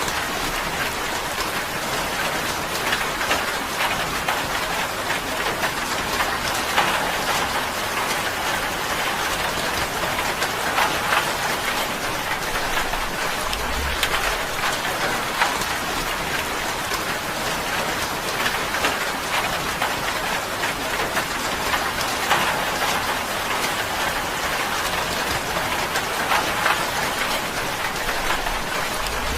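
Steady rain on a tin roof: a dense, even patter of many drops striking the metal.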